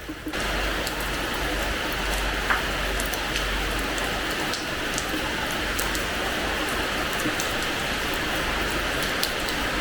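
Rain falling on a terrace floor: a steady hiss of rain with scattered individual drop ticks. Right at the start it steps up suddenly from lighter pattering to heavier, denser rain.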